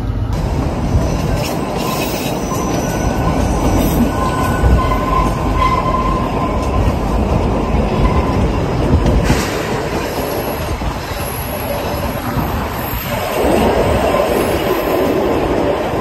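Kalka–Shimla narrow-gauge toy train running, a steady rumble of wheels on the rails with thin wheel squeals coming and going.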